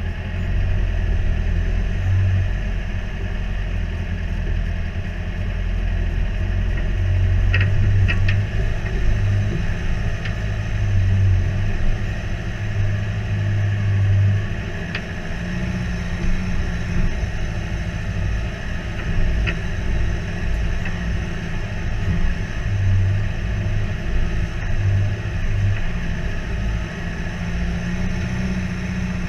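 A four-wheel-drive ute's engine running at low revs as the vehicle crawls up a rough rock-and-dirt track, the low rumble swelling and easing with the throttle. A few short knocks sound here and there over it.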